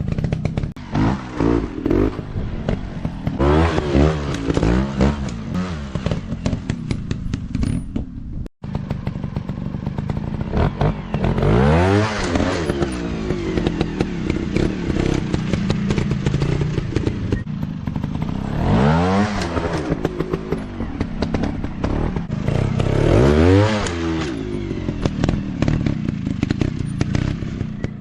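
Small off-road motorcycle engines revving up and down again and again, pitch sweeping up and falling back several times, with clattering and scraping from the bikes working over the ground. The sound cuts out for an instant about eight and a half seconds in.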